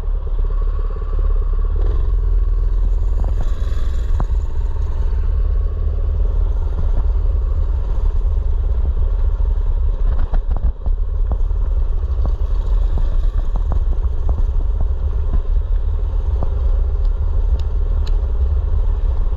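Mini bike's small engine running steadily while being ridden, under a heavy low rumble, with scattered clicks and rattles.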